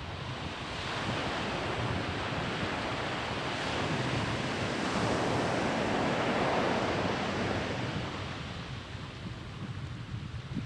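Ocean surf on a beach: a wave breaks and washes in, building over the first few seconds and easing off near the end. Wind rumbles on the microphone underneath.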